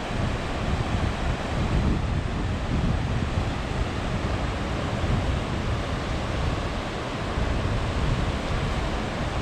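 Ocean surf washing steadily onto the beach, with wind buffeting the microphone in a low rumbling flutter.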